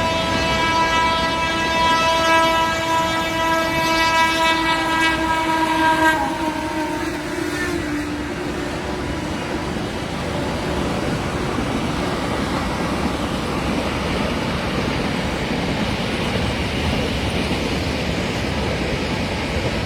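Train passing at speed with the locomotive horn sounding one long continuous blast that stops about six seconds in; after that the steady rumble of the train's wheels and carriages running past carries on.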